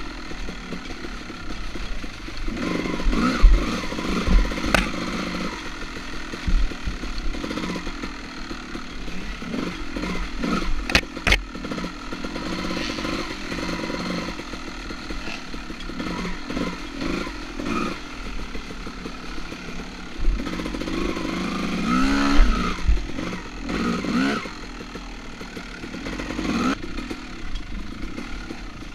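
Two-stroke dirt bike engine revving up and down unevenly under throttle, with a few sharp knocks.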